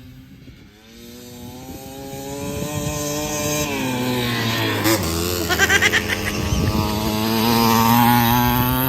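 Kawasaki KMX 125 two-stroke dirt bike engine revving as the bike comes closer, getting louder. The pitch climbs, dips briefly about halfway through, then climbs again.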